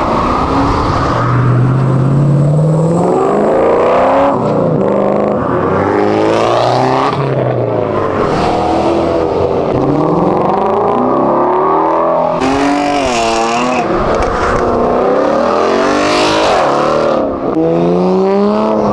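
Several high-performance cars accelerating hard one after another, their engines revving up through the gears in repeated rising and falling sweeps of pitch, often overlapping.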